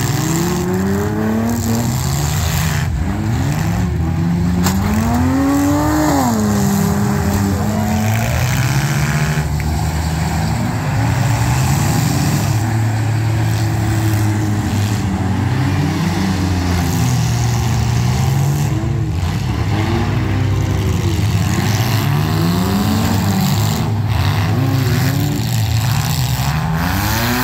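Several compact demolition-derby car engines revving up and down again and again as the cars drive and ram each other, with a few sharp crunches of collisions.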